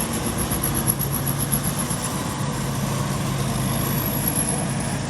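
An engine running steadily: an even low hum under a noisy wash.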